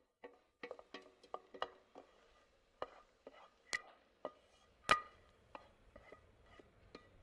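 Metal utensil knocking and scraping against a metal cooking pot during stirring: irregular clinks, two or three a second, each with a short metallic ring, the loudest about five seconds in.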